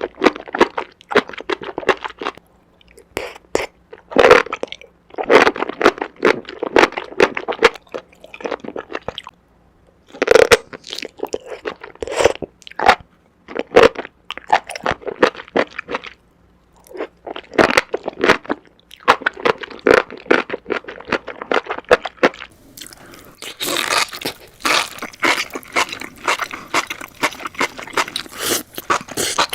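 Close-miked chewing of enoki mushrooms: wet, crunchy bites and mouth sounds in runs of a few seconds with short pauses between them. The chewing becomes denser and brighter over the last several seconds.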